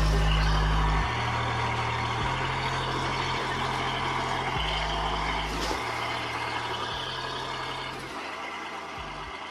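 A heavy vehicle's engine running, with a low drone that changes pitch in steps every second or so, fading gradually toward the end.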